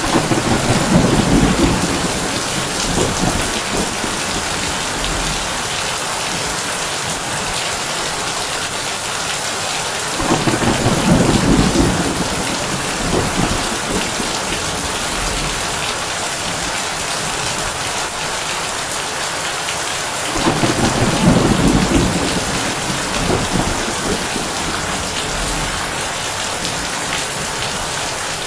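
Heavy rain drumming steadily on a tin roof, with three rolls of thunder about ten seconds apart, each rumbling low for two or three seconds before fading back into the rain.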